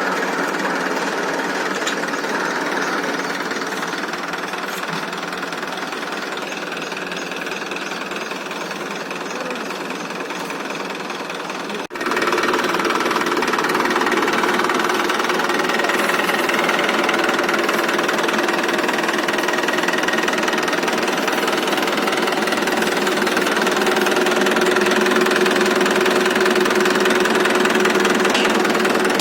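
Tractor engine running steadily under load. About twelve seconds in the sound drops out for an instant and comes back louder and steadier.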